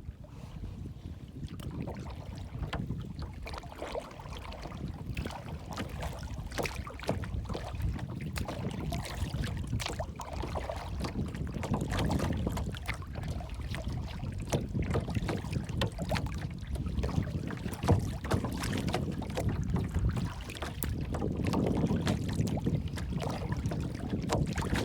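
Water lapping and splashing, with many small irregular splashes over a steady low rumble of wind on the microphone.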